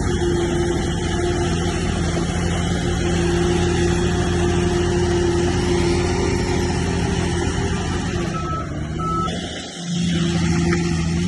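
Heavy diesel engine of earthmoving machinery running steadily at a constant pitch. Near the end it briefly dips and then comes back.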